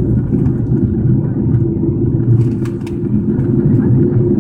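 Cabin noise inside an Airbus A330-300 airliner on descent: a steady low roar of airflow and engines, with a constant hum running through it and a few faint clicks.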